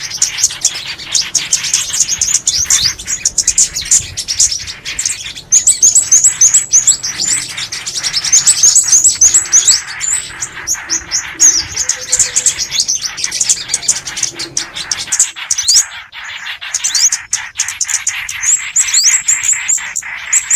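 Recorded small songbird calls: runs of high, thin, rapid chirps, each falling quickly in pitch, repeated over and over with short breaks.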